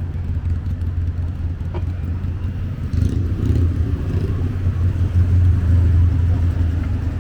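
City street ambience: a steady low rumble of road traffic, growing somewhat louder about three seconds in.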